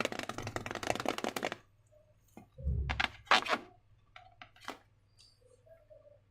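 Slime being handled, with a dense run of crackling clicks that stops about a second and a half in. A soft thump and a few separate crackles follow a second later.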